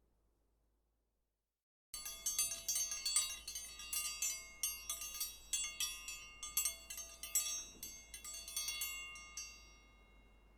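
Metal wind chimes tinkling: many quick, irregular strikes of clear high ringing tones. They start suddenly about two seconds in and fade out near the end.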